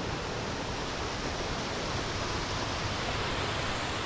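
Mok Fa Waterfall's falling water, a steady rushing noise.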